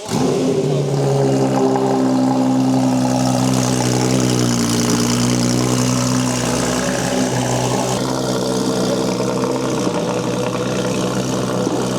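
A car engine running steadily at held revs, with a slight dip in pitch about four seconds in and a change in tone about eight seconds in. It starts and stops abruptly.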